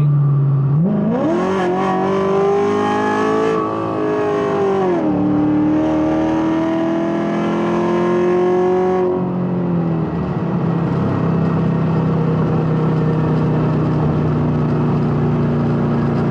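Cammed C7 Corvette's 6.2-litre V8 accelerating hard about a second in, revving up through a gear, shifting up around four seconds in and pulling again, then easing off near ten seconds into a steady, lower cruise.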